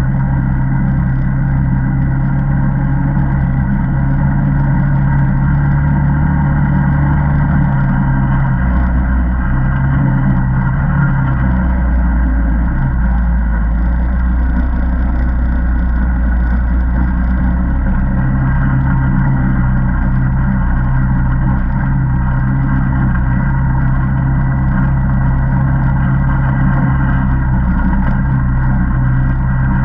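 Single-cylinder ATV engine running steadily on a trail ride. Its note drops lower for several seconds near the middle, then picks back up.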